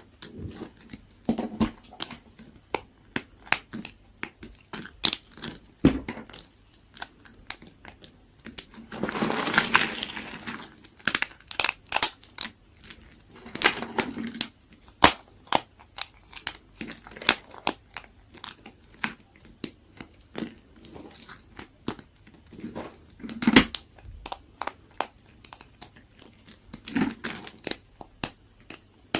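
Very dry bar soap being cut with a knife: a run of crisp crunches and cracks, with a longer grinding crunch a little before the middle.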